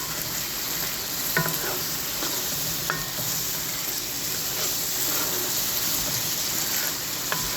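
Mushrooms sizzling steadily in a skillet as the last of the red wine vinaigrette cooks off, with a few light clicks against the pan.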